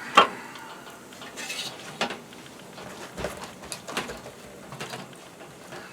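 A few separate sharp clinks and knocks of metal objects being handled, the loudest just after the start.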